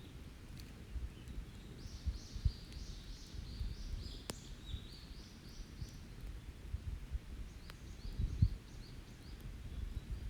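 A songbird singing quick runs of high repeated notes, twice, over an open wood campfire with a few sharp crackling pops. Low rumbling and dull thumps run underneath, the loudest twice.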